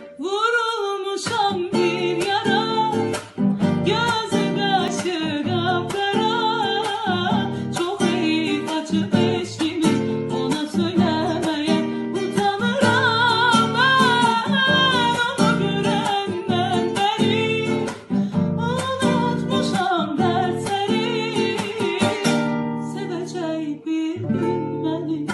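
A person singing a melody with a wavering, ornamented voice, accompanied by a plucked acoustic guitar. The voice drops out near the end, leaving mostly the guitar.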